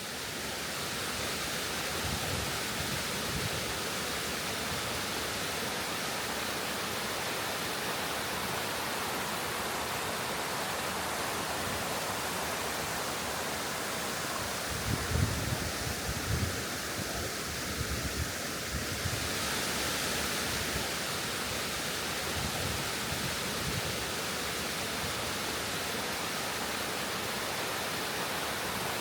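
Injebreck Waterfall, a small hill-fed upland waterfall, rushing steadily. The hiss brightens a little about two-thirds of the way through. Low wind buffets hit the microphone a few times, strongest about halfway.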